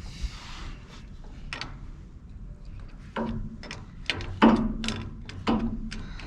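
Metal clicks and clunks of a spanner working on a heating-system valve as it is tightened onto its threads, with a run of sharper knocks in the second half.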